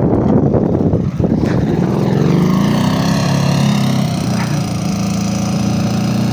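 Dnepr motorcycle's flat-twin engine revving hard: the pitch climbs about a second and a half in and stays high, the bike bogged down and trying to pull free.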